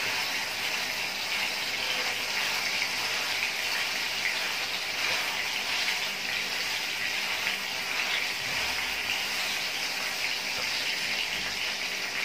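Beef-mince chapli kababs frying in oil on a flat iron tawa: a steady, even sizzle.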